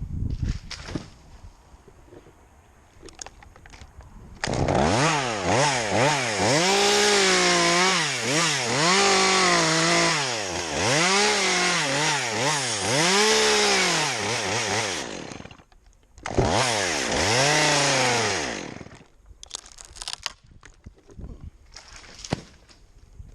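Chainsaw running at high revs, its pitch dipping and recovering about once a second for some ten seconds. After a short break it runs again briefly and winds down. Light knocks come before and after.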